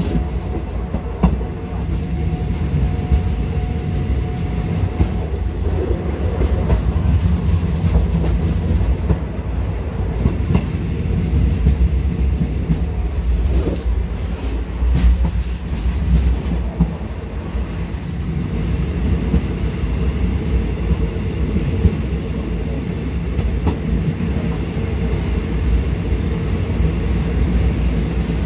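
Passenger train running along the track, heard from the rear of the last carriage: a steady low rumble of wheels on rails, with the wheels clicking now and then.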